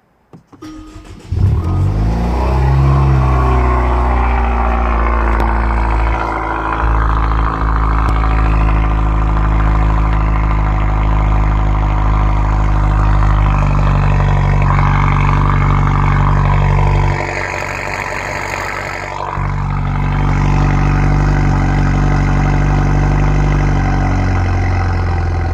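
Kia Stinger's 2.0-litre turbocharged four-cylinder on a custom exhaust, cold-started: the starter cranks briefly, the engine catches and settles into a loud, steady fast cold idle. The sound dips for about two seconds partway through, then comes back up.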